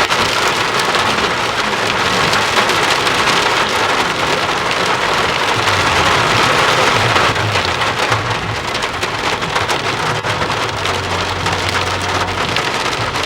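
Rain falling steadily, with many separate drops striking a surface. A low hum comes and goes in the second half.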